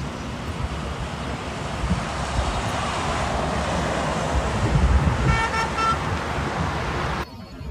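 Steady traffic-like vehicle noise with three short horn beeps a little past five seconds in; the noise cuts off suddenly near the end.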